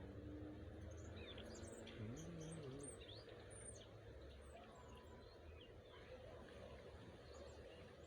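Faint small-bird chirps and twitters, many short quick notes in the first half and fewer later, over a low steady rumble of wind on the microphone.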